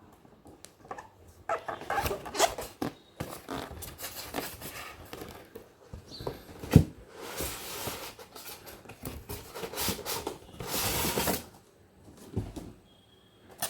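Cardboard and plastic packaging being handled as a toy RC plane's box is opened: irregular rustling, scraping and small clicks, with a sharp knock about seven seconds in and two longer swishes of sliding material near the middle and end.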